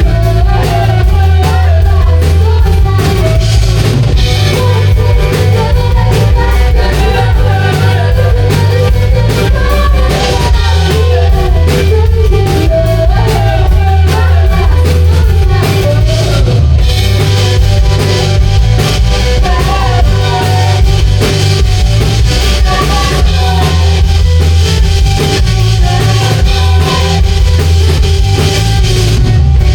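Live rock band playing loudly and without a break: drum kit, electric guitar and bass, with a voice singing over them.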